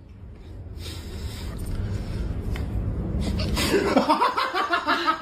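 A low rumbling noise grows louder for a few seconds, then a person bursts out laughing hard about three and a half seconds in, in quick repeated pulses.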